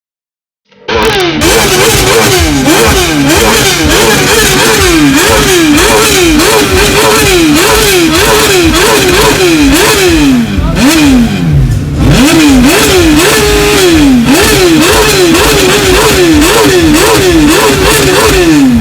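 A loud engine revved over and over in quick throttle blips, the pitch rising and falling about once every three-quarters of a second, with a rapid crackle throughout. About ten seconds in the revs sink low for a moment, then the blipping resumes.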